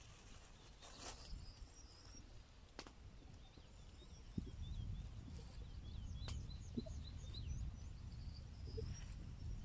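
Small birds chirping in short repeated notes, with a few faint sharp clicks and a low rumble that comes up about four seconds in.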